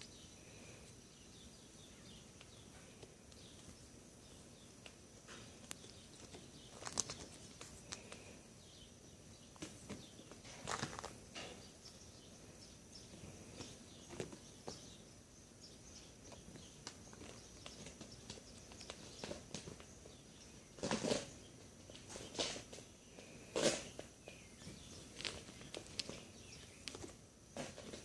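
Kittens scampering and playing: scattered light taps, thumps and scratches, busier and louder in the last third.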